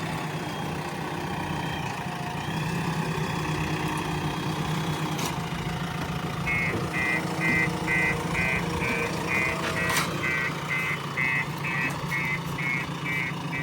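JCB 3DX Plus backhoe loader's diesel engine running steadily. About halfway through, a reversing alarm starts beeping about twice a second.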